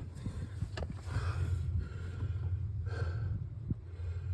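A person breathing hard, with two audible breaths about two seconds apart, over a steady low hum.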